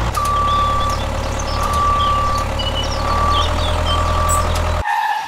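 Vehicle reversing alarm beeping four times in one high tone over an engine running steadily, with birds chirping in the background.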